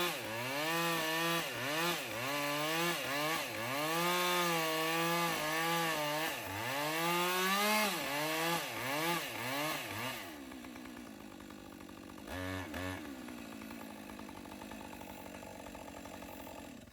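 Chainsaw cutting through a dead poplar trunk, its engine speed dipping and recovering again and again under load for about ten seconds. It then drops to a steady idle with one short rev, and cuts off near the end.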